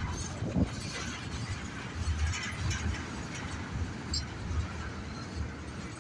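Freight train tank cars rolling past, their steel wheels rumbling and clanking on the rails with repeated low thumps as the wheelsets pass. A brief high squeal sounds about four seconds in.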